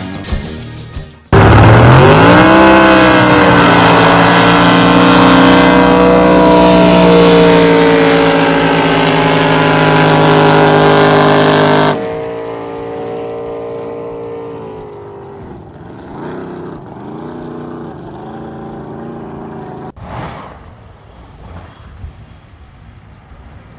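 Drag boat engine launching at full throttle: a sudden start, pitch climbing steeply, then held at high revs for about ten seconds before dropping abruptly as the throttle is cut at the end of the pass. Quieter engine sound with shifting pitch follows.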